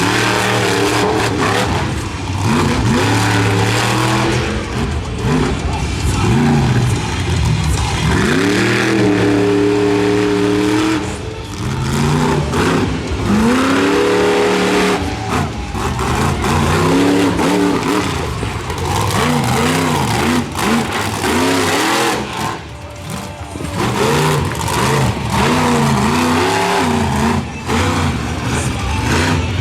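Monster truck's supercharged V8 revving hard over and over, the pitch surging up and falling back every second or two, with short dips as the throttle is lifted.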